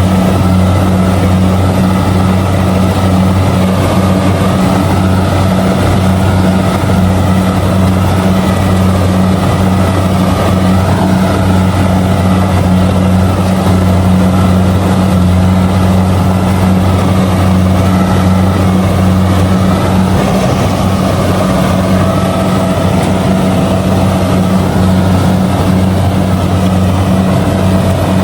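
Kubota DC70G combine harvester running steadily while harvesting rice: a loud, even engine hum with the rattle of the machine's workings over it.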